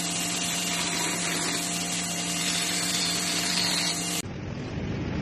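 A machine running steadily with a hum and hiss, which cuts off abruptly about four seconds in as a different, duller mechanical sound takes over.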